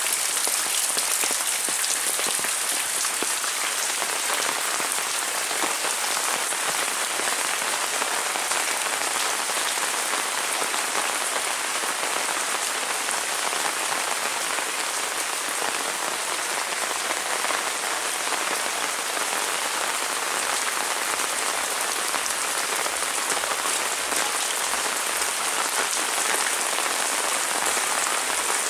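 Heavy rain falling steadily: a dense, even hiss of drops that holds at the same strength throughout.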